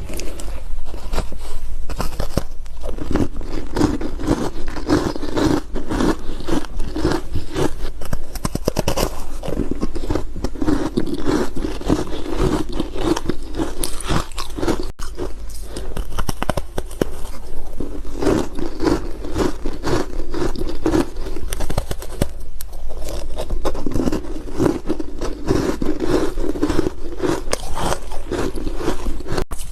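Close-up crunching as ice is bitten and chewed: dense, crisp, irregular cracks and crunches with low chewing in between. There is a sudden edit cut about halfway through.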